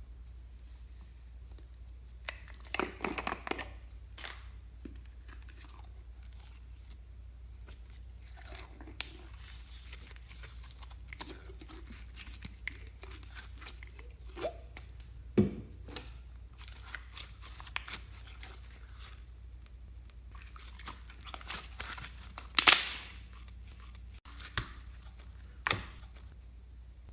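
Hands squishing, stretching and pulling apart slime, giving irregular sticky crackles and tearing pops, one louder crackle about three-quarters of the way through.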